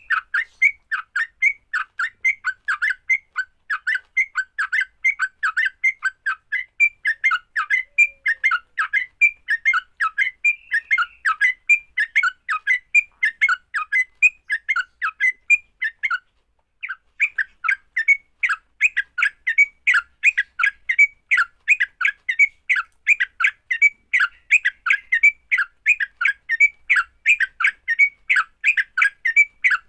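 Yellow-vented bulbul (trucukan) fighting call: an unbroken run of short chirping notes, about three a second, with one brief pause about 16 seconds in. It is the kind of call used as a lure to set other trucukan singing.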